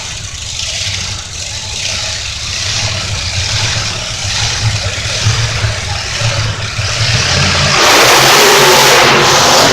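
Monster truck engine running with a deep, steady rumble that rises and falls with the throttle; about eight seconds in it jumps sharply to a much louder, fuller roar.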